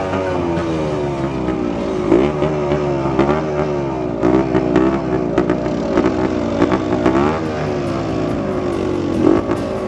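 Dirt bike engine revving, its pitch repeatedly climbing and dropping back as the throttle is worked and it shifts.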